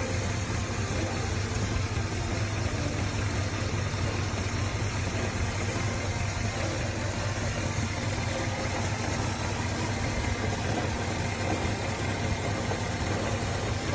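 1972 Dodge Coronet's 318 cubic inch V8 idling steadily.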